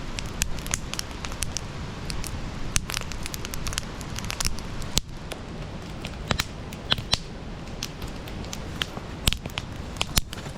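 Wood campfire crackling and popping, with irregular sharp snaps over a steady low rush of burning.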